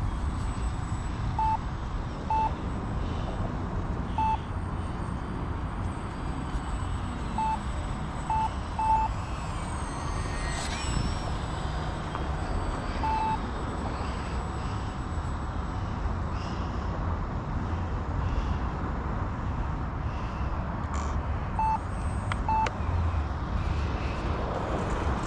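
Electric RC airplane's motor whine, faint and high, falling in pitch as the plane passes about ten seconds in, over a steady low rumble of wind on the microphone. Short single electronic beeps sound now and then.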